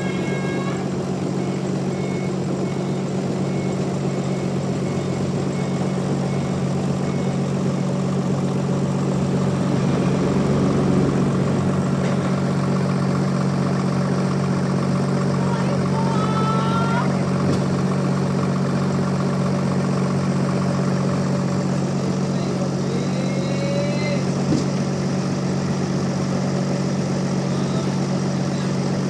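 Band sawmill's engine running at a steady hum, with a slight swell in level about ten seconds in.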